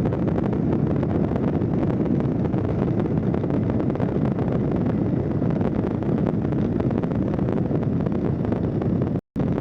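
Steady drone of a light aircraft's Rotax engine in cruise, mixed with heavy wind rushing over the microphone in the cockpit. The sound cuts out completely for a split second near the end.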